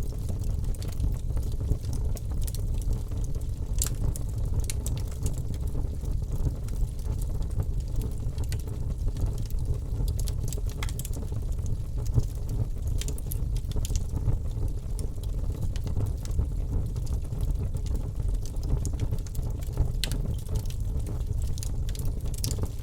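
Wood fire burning in a fireplace: a steady low rumble of the flames with frequent, irregular sharp crackles.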